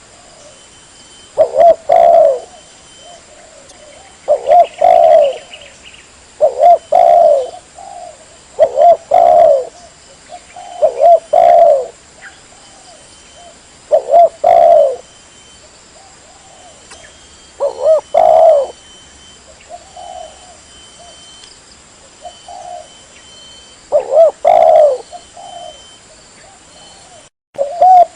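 Spotted dove (tekukur) cooing, a short phrase of a few coos repeated about every two seconds: the call used as a lure to draw the birds in.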